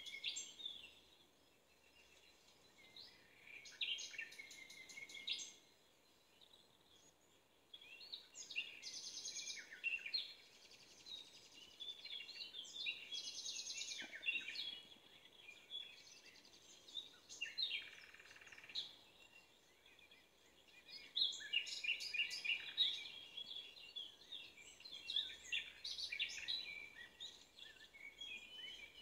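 Small birds chirping and trilling in scattered bursts, high-pitched, with short quiet gaps between.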